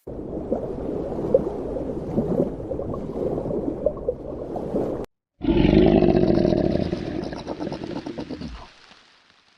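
A large animal's low vocalizations in two takes: a rough, rumbling growl for about five seconds, then after a brief cut a louder, deeper call that fades out near the end.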